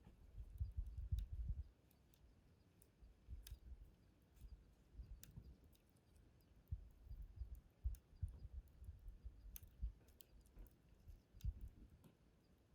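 Faint, scattered pops and crackles from a wood campfire burning down near its end, about a dozen sharp ticks spread irregularly, over an uneven low rumble.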